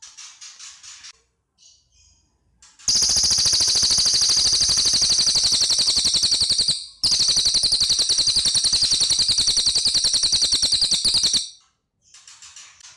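Cililin songbird singing: soft chattering notes, then two long, loud, very rapid high trills of about four seconds each, machine-gun-like, with a brief break between them. Softer chatter returns near the end.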